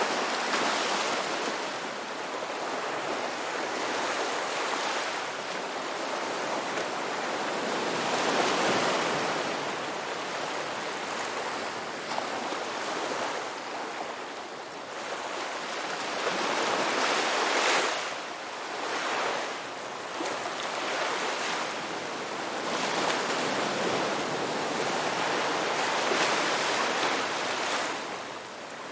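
Sea waves breaking on a shore: a continuous rush of surf that swells and eases every few seconds as each wave comes in and washes back, with the strongest surge about two-thirds of the way through.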